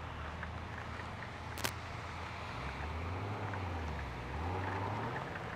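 Honda Gold Wing motorcycle engine idling at a standstill, a low steady hum that shifts in pitch about halfway through, under a steady hiss of rain with small drop ticks. One sharp tap about one and a half seconds in.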